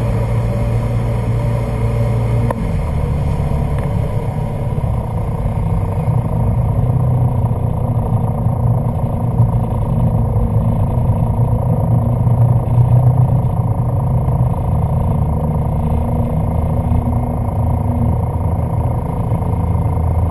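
1995 Sea-Doo Speedster jet boat's engines running steadily under way, their pitch shifting down about two and a half seconds in and then holding.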